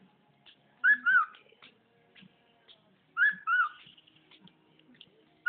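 Pet bird whistling the same short two-note phrase twice, about two seconds apart, each note a quick slide up and down.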